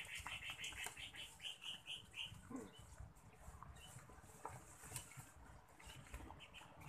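A bird calling a quick run of about ten short, high notes over the first two seconds, with faint scattered clicks and rustling afterwards.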